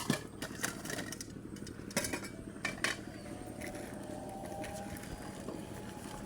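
A few sharp knocks and clicks from things being handled, over a steady low engine-like hum.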